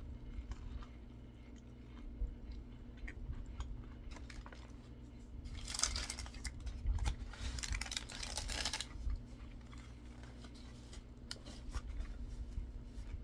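Chewing and crunching on a fried chicken sandwich, with small clicks throughout and a few seconds of louder crackling of paper wrapping near the middle, over a steady low hum.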